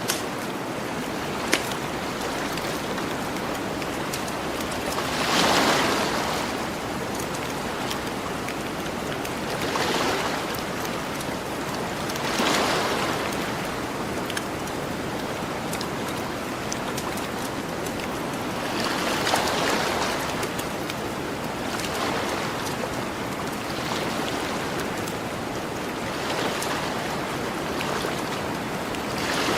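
Ocean surf washing onto a beach, a steady hiss that swells as a wave breaks every few seconds. Over it a campfire crackles, with a few sharp pops, two of them near the start.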